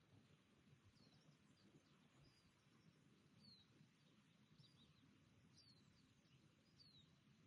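Faint birdsong: short, high, falling chirps about once a second over a low, steady outdoor rumble.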